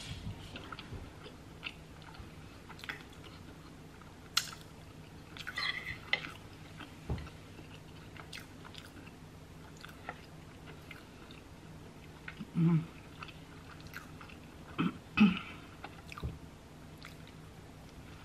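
Close-miked eating sounds: soft, wet chewing of chili cheese fries and cheeseburger, with scattered small clicks and a few louder mouth noises.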